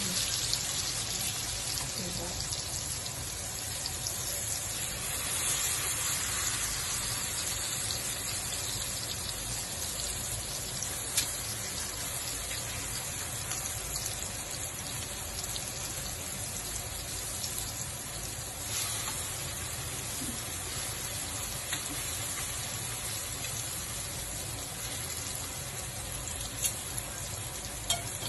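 Eggplant omelettes (tortang talong) frying in hot oil in a nonstick pan: a steady sizzle, with a few sharp taps now and then.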